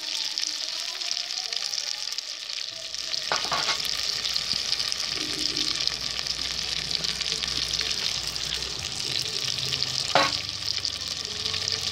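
Marinated chicken 65 pieces deep-frying in hot oil, a steady sizzle throughout. Two sharp clicks cut through it, one about three and a half seconds in and a louder one about ten seconds in.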